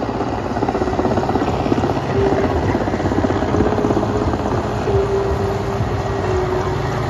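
Helicopter passing with its rotor chop running steadily and a wavering engine whine over it.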